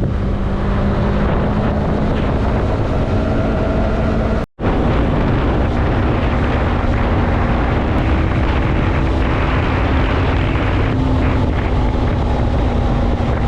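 Yamaha MT-03 motorcycle engine running at a steady cruising speed, with wind rushing over the microphone. The sound cuts out completely for a moment about four and a half seconds in.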